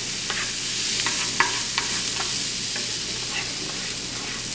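Diced red bell peppers, onions and garlic sizzling as they sauté in butter in a pan, a steady hiss with scattered small pops and crackles.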